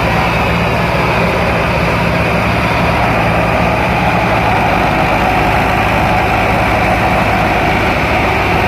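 FIAT tractor's diesel engine running steadily at a constant speed.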